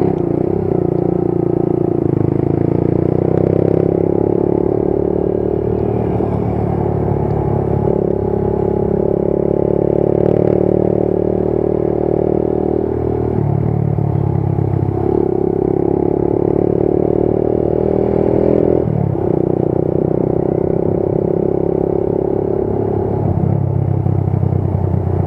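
Motorcycle engine running while ridden, its pitch holding steady for a few seconds at a time, then dropping and climbing again several times as the rider changes speed and gear.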